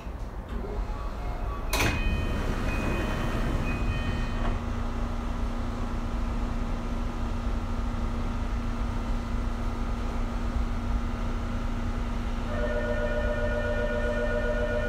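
Tokyu 2020 series train standing at a station after braking to a stop. About two seconds in there is a sharp clunk followed by a hiss, typical of the sliding doors opening. After that comes a steady electrical hum from the stationary train, and near the end a repeating electronic chime.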